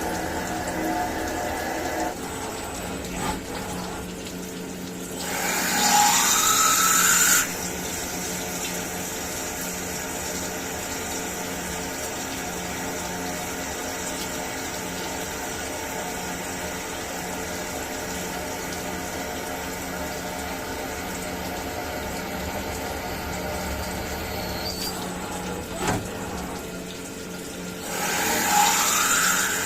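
CNC milling machine running steadily, its coolant pump humming under the rush of flowing coolant. Twice, about five seconds in and near the end, a louder hiss lasting about two seconds rises in pitch.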